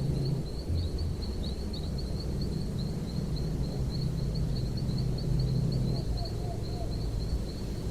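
A small bird chirping rapidly and continuously in high, short notes, with a few lower calls about six seconds in, over a steady low rumble.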